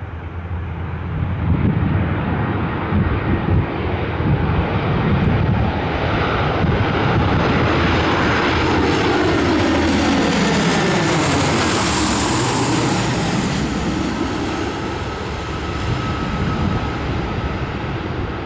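The four Allison T56 turboprop engines of a Lockheed C-130H Hercules, running steadily as it comes in to land. The sound swells, then sweeps as the aircraft passes closest, about two-thirds of the way in, and eases off a little after.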